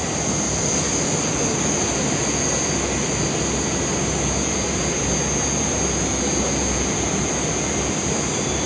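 Inside an 81-760 'Oka' metro car standing at a station: a steady hiss and hum of the car's ventilation and on-board electrical equipment, with a high steady whine. A low hum drops away near the end.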